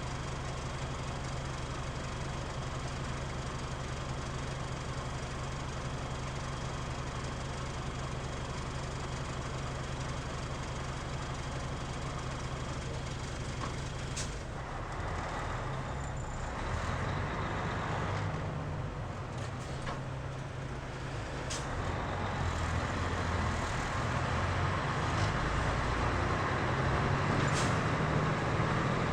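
Mitsubishi Fuso KL-MP37JK city bus's diesel engine idling steadily with a heavy vibration drone, heard from inside the bus. About halfway through there is a sharp click, then the engine note changes and grows louder as the bus pulls away and accelerates, with a couple more clicks along the way.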